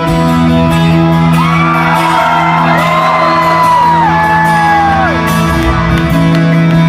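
Live rock band holding out the final chord of a song in a large hall, with high whooping shouts that rise and fall over it for a few seconds in the middle.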